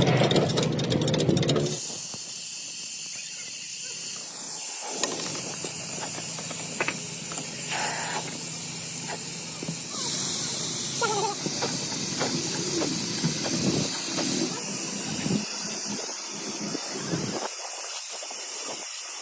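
Steady, loud hiss of air, with a few faint clanks. A low engine hum stops about two seconds in.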